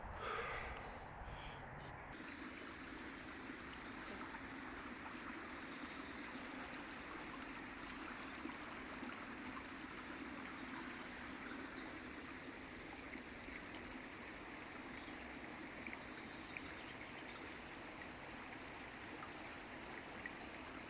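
Stream water running and trickling steadily, a soft even wash, with a low rumble in the first two seconds that then stops.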